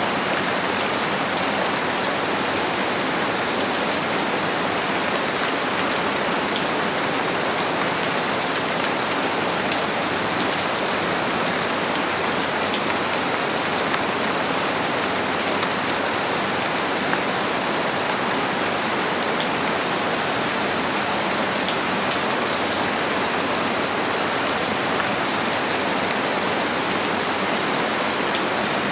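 Steady heavy rain falling, an even hiss with many fine drop patters on top.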